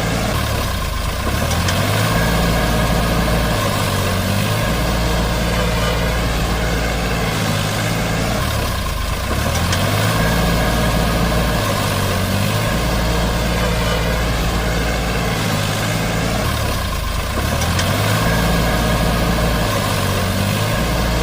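Diesel tractor engine sound running steadily with low stepped changes in tone; the same pattern repeats about every eight seconds, like a looped sound effect.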